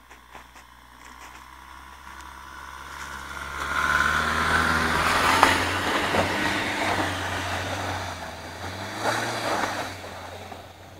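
4x4 off-road vehicle's engine revving hard as it drives through mud. It grows loud about four seconds in and eases off near the end.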